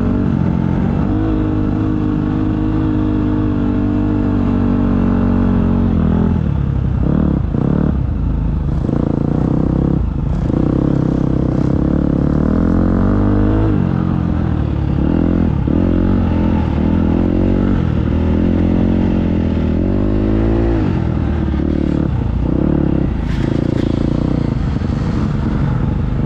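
Motocross dirt bike engine ridden hard, revving up through the gears and then dropping off the throttle again and again, with brief cuts in power every few seconds.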